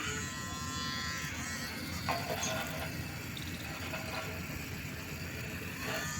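Small electric motor running with a steady buzz, likely the homemade RC tractor's geared DC drive motor.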